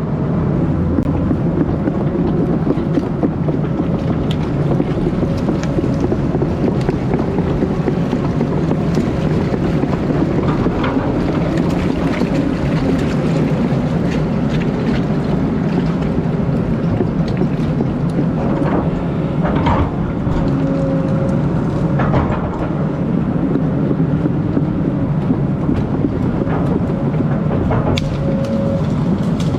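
Excavator's diesel engine running steadily under load, with a faint whine coming and going and a few sharp knocks or cracks about two-thirds of the way through and near the end.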